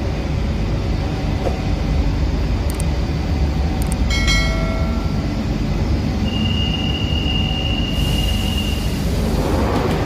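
A train running with a steady heavy rumble. A brief high squeal comes about four seconds in, and a steady high whine runs from about six to nine seconds.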